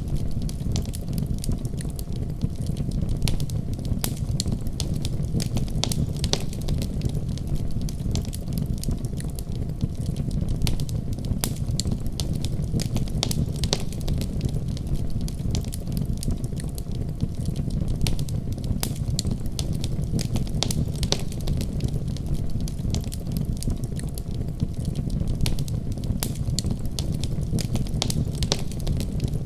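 Wood fire burning in a fireplace, crackling with frequent irregular pops over a steady low rumble of the flames.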